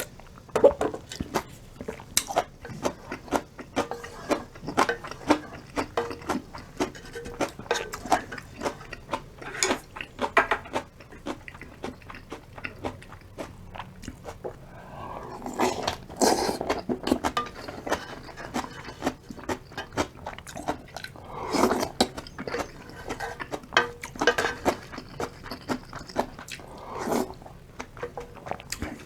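Close-up eating sounds of ramen with kimchi: steady chewing and biting with many short wet mouth clicks and crunches, and a few louder, longer mouth sounds about a third, two thirds and most of the way through.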